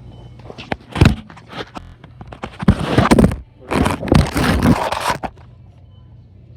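Bursts of scraping and crinkling noise: a short one about a second in, then two longer, louder stretches in the middle.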